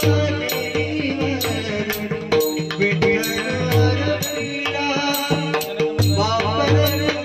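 Devotional bhajan music: pakhawaj drum strokes and ringing metal cymbal strikes about twice a second keep a steady beat over held tones, with sung phrases coming in near the end.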